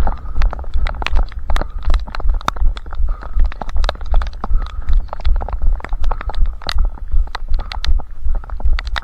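A runner's footfalls at a steady pace, about two to three strides a second. Each stride lands as a low thud, picked up through a head-strapped camera, with sharp ticks and clicks of jostling gear between them.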